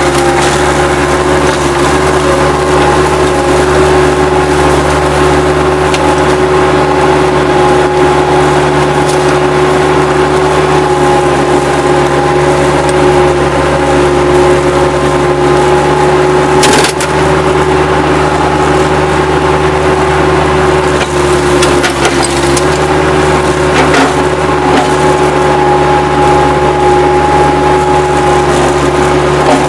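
Bobcat 763 skid-steer loader running steadily with a constant whine over the engine, while wood debris cracks and splinters under the grapple; one sharp crack about seventeen seconds in.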